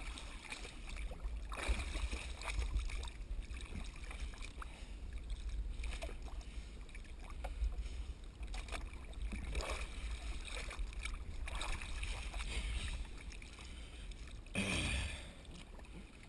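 Steady low rumble of water and boat noise, with scattered light knocks and splashes and a short rushing hiss near the end.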